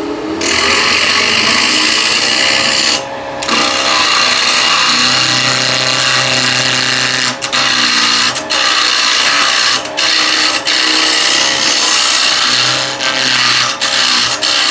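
Wood being cut with a turning tool on a spinning Vicmarc VL300 lathe: a steady loud hiss of the cut over the lathe's hum. There is a short break about three seconds in and a few brief breaks later as the tool is lifted off the work.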